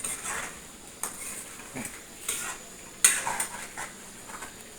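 Spoons and dishes clinking, with some scraping; the loudest clink comes about three seconds in.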